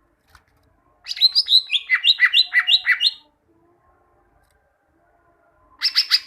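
Green leafbird (cucak ijo) singing. About a second in comes a roughly two-second phrase of loud, clear notes sliding down in pitch, and near the end it starts a fast run of rapidly repeated notes.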